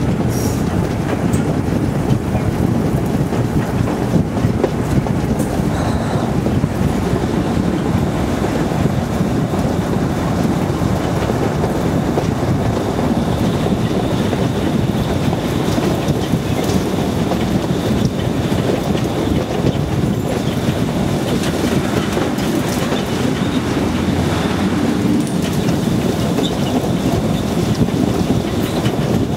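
Steady wind buffeting the microphone held out of the window of a moving diesel-hauled train, over the low rumble of the train running on the track.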